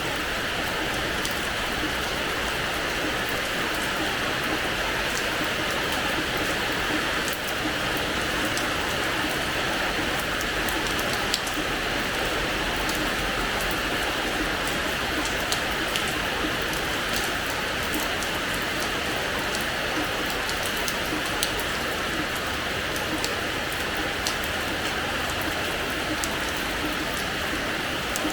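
Steady rain falling on a hard terrace floor: an even hiss with single drops ticking through it.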